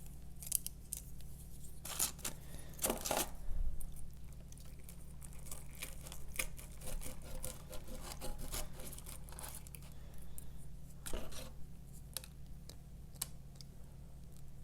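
Knife and fork cutting through a cheese-topped chicken-base pizza, with scattered short scrapes and taps, over a steady low hum.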